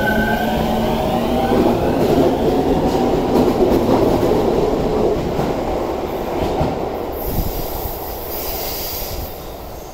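Keio 9000 series electric train pulling away along the platform. Its motor whine is rising in pitch at the start, then fades into a steady rumble of wheels on rail as the cars go by. A high hiss comes in about seven seconds in and lasts some two seconds.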